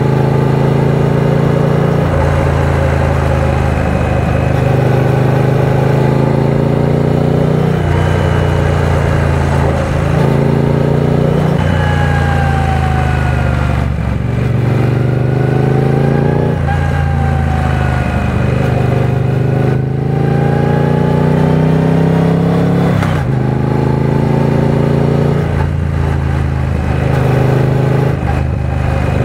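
Triumph Speed Twin 900's 900 cc parallel-twin engine under way at road speed, its revs climbing and dropping back sharply again and again, as with throttle and gear changes, over a steady rush of wind.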